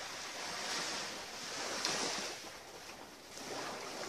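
Surf washing onto a beach, the noise of the waves swelling and easing about three times.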